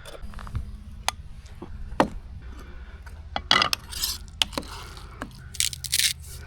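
Metal camp pot and utensil clinking and scraping as rice is cooked, with scattered sharp taps bunched about three and a half seconds in and again near the end, over a steady low rumble.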